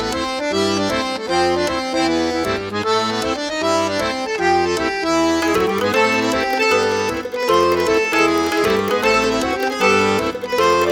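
Accordion music in a traditional style, with a bass line repeating in a steady rhythm under the melody.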